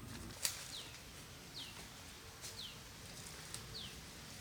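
A bird giving short, high chirps that fall in pitch, repeated about once a second. A sharp click about half a second in is the loudest sound.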